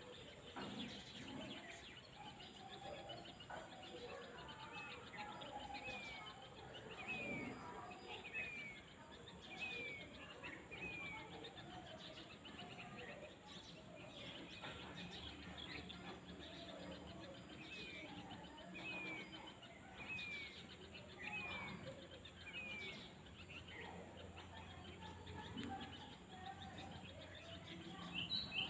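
Rural outdoor ambience of birdsong: one bird repeats a short, downward-sliding whistled note about once a second in two runs, over scattered chirps from other birds and a faint low hum in the second half.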